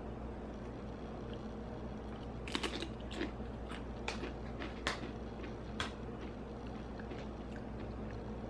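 A person chewing and crunching tortilla chips with dip, with about five sharp crunches spread irregularly through the middle seconds.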